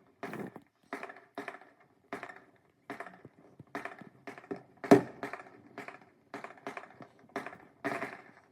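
Fireworks going off in a rapid, irregular series of sharp bangs and pops, about two a second, the loudest about five seconds in.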